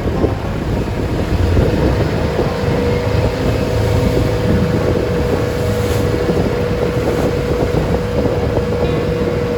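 Engine of a wooden passenger boat running steadily, with a steady drone coming in about a second and a half in, under wind buffeting the microphone.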